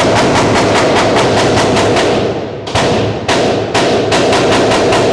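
Rapid gunfire, shot after shot at about five a second, with a short break a little past halfway before the firing resumes.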